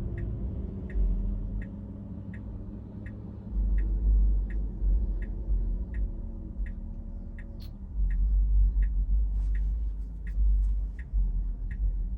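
Car turn-signal indicator ticking steadily inside a Tesla's cabin, about three ticks every two seconds, signalling a left turn. Low road rumble underneath swells and fades.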